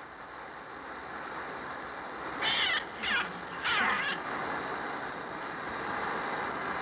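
Three shrill bird shrieks in quick succession, about two and a half seconds in, over a steady rushing noise of a bird attack.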